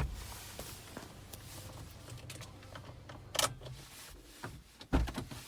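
A few sharp clicks and knocks: a loud one at the start, another about three and a half seconds in, and a heavier thud about five seconds in, with faint small ticks in between.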